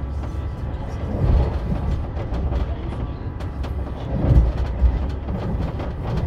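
Passenger train running, heard from inside the carriage: a steady low rumble that swells twice, about a second in and again after four seconds, with faint ticks over it.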